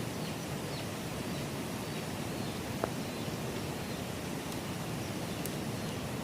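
Steady outdoor rushing noise with a single faint click about halfway through.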